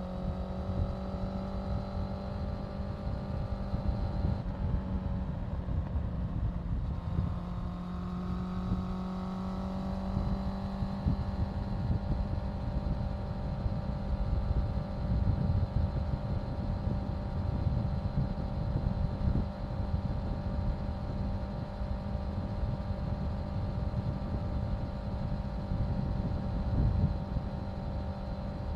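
Honda CBR650F's inline-four engine running under way, with wind buffeting the microphone. The engine note climbs a little, eases off briefly about five seconds in, then picks up again and holds a steady cruising pitch.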